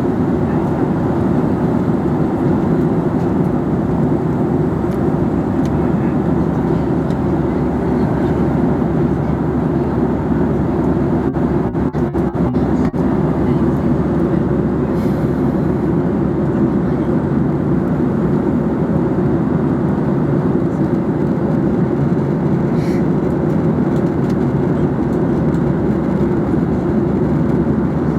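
Steady cabin noise of an airliner in flight: the constant low-pitched roar of jet engines and airflow heard from inside the passenger cabin.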